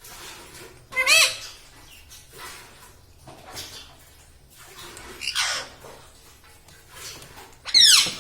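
A pet parrot squawking: two loud, short, harsh calls, about a second in and near the end, with quieter calls between them.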